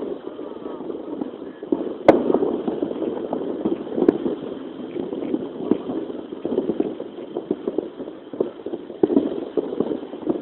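Strong gusting wind buffeting the microphone, in uneven surges, with a sharp click about two seconds in.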